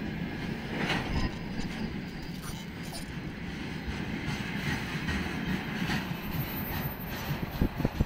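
Freight train of railway tank cars rolling past, with a steady rumble of wheels on the rails. A few sharp wheel clacks come near the end as the last wagons go by.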